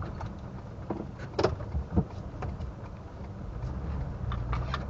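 Low, steady rumble of a car driving slowly on a rough dirt or gravel road, heard from inside the cabin. Two sharp knocks about a second and a half and two seconds in, with a few lighter clicks near the end.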